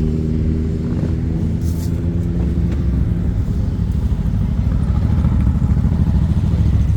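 Motorcycle engines running. A steady pitched engine note fades over the first three seconds, and a lumpy, uneven low rumble follows.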